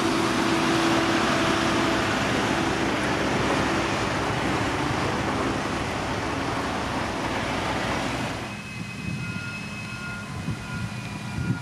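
Heavy diesel road-construction machinery running loudly, then easing off about eight seconds in. After that, a high beep repeats about twice a second.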